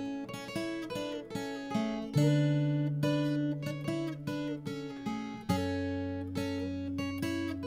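Background music: an acoustic guitar picking a slow melody, with each note plucked and dying away over ringing low bass notes.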